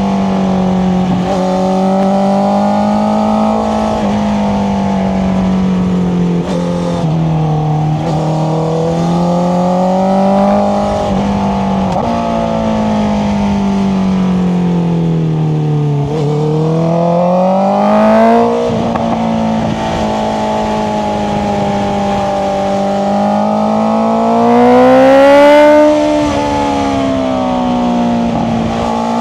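Honda CBR650R's inline-four engine through an Akrapovic exhaust, running under changing throttle with the revs rising and falling. About 16 seconds in it accelerates hard, and the revs drop suddenly near 18 seconds as it shifts gear. A louder rising pull comes around 25 seconds.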